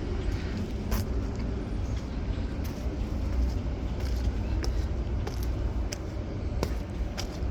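Steady low rumble of road traffic, with scattered sharp ticks of raindrops falling close to the microphone at an irregular pace.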